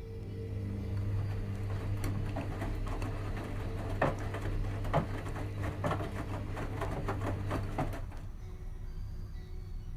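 Washing machine motor turning the drum on a delicates wash: a steady hum with a rapid clatter of clicks and knocks from the tumbling load, stopping about eight seconds in.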